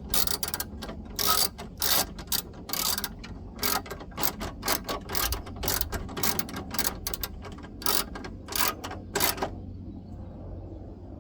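Hand ratchet wrench clicking in quick, uneven strokes as it turns a bolt on a car window regulator's motor mount, stopping about two seconds before the end.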